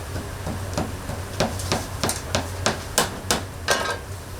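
A run of sharp knocks, about three a second, starting about a second in and stopping shortly before the end, over a steady low hum.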